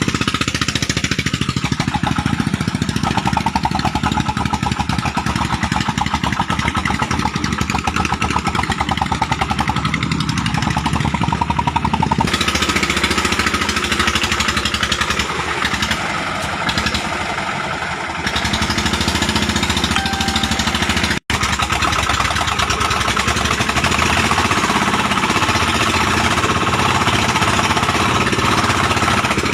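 Single-cylinder 'dompeng' diesel engine of a home-built oil-palm fruit hauler running, a fast, steady chugging. The sound turns harsher about twelve seconds in and cuts out for an instant about two-thirds of the way through.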